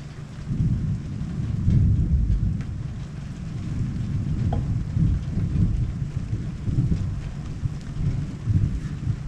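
A long roll of thunder from a monsoon thunderstorm, starting about half a second in, loudest about two seconds in, then rumbling on in surges, over steady rain.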